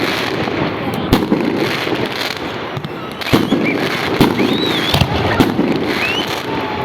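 Fireworks going off: a continuous crackle with sharp bangs about once a second, and a few short whistles about two thirds of the way in.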